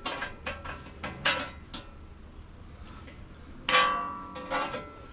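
Metal clanks and knocks: several sharp strikes in the first two seconds, then a louder ringing clang about three and a half seconds in, followed by a smaller knock.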